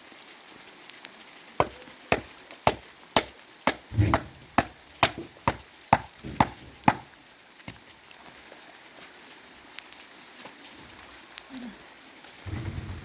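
A quick series of about a dozen sharp blows, roughly two a second, then a duller thud near the end.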